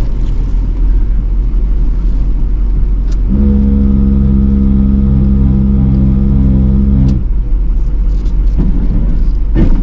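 Diesel truck running while spreading salt. A salt spreader's hopper vibrator buzzes with a steady hum, switched on about three seconds in and off again about four seconds later.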